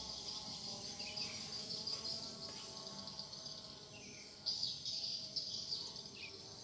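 Faint, steady buzz of a distant hovering drone under a continuous high-pitched trill, with short bird chirps a few times.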